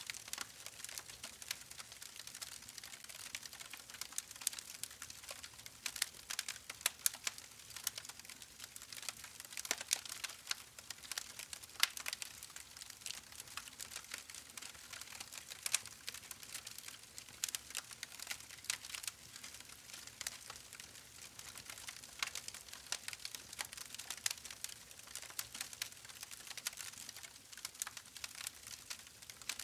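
Fire in a fireplace crackling steadily, with frequent irregular sharp pops and snaps over a soft hiss.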